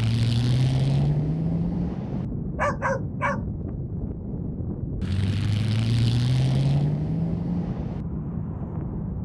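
A vehicle engine rising in pitch twice as it accelerates, over a steady low road rumble. About three seconds in come three short, sharp calls in quick succession.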